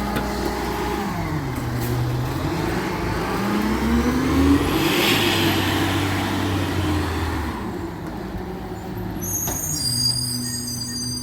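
Recycling truck's diesel engine dropping back, then revving up in a rising pitch and easing off again, with a hiss of air in the middle. A thin high squeal comes near the end.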